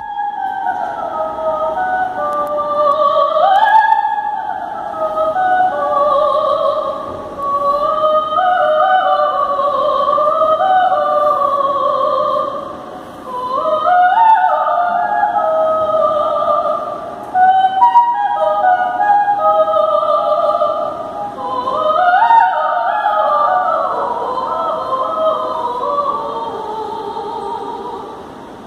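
Operatic classical music: a sung melody in long held, gliding phrases, with brief pauses between phrases.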